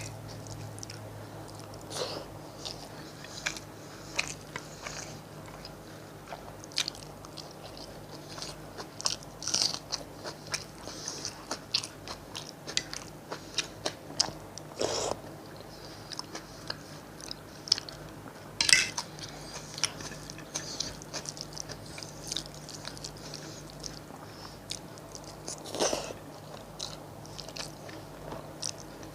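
Close-miked eating of biryani: chewing with wet mouth sounds and many irregular crunchy clicks, over a faint steady low hum.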